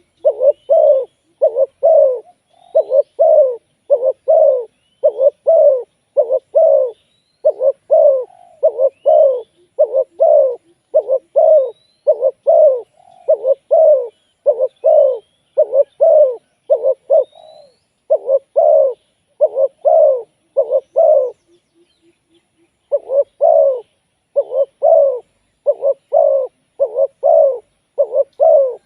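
Spotted doves cooing: a rapid, continuous string of short, low coo notes that pauses briefly about two-thirds of the way through. A small bird gives faint, high, rising chirps now and then.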